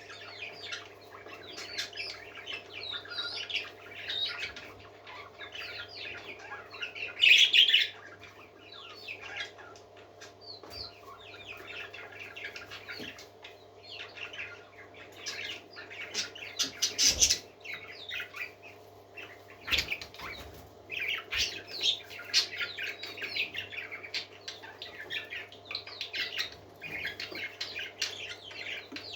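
Several parakeets chirping and warbling without a break, with louder bursts about seven seconds in and again around seventeen seconds. A steady low hum runs underneath.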